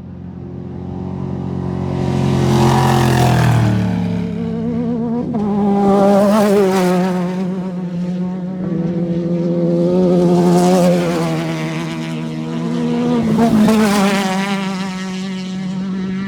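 Off-road race vehicle engines running hard past the course, swelling and fading in loudness about four times; the first drops in pitch as it goes by.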